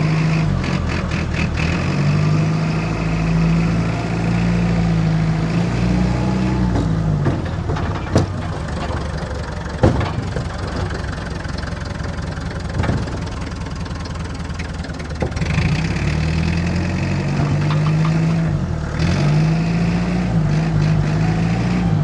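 Perkins 4.203 four-cylinder diesel engine of a 1962 Lansing Bagnall forklift running on a test drive, its speed rising and falling several times. A few sharp knocks sound in the quieter middle stretch.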